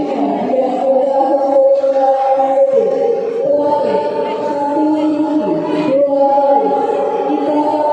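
Children's drum band music: sustained held chords that shift pitch every few seconds, with lower falling swoops recurring underneath.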